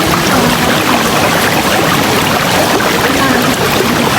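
River water flowing steadily, a constant rush with small gurgles through it.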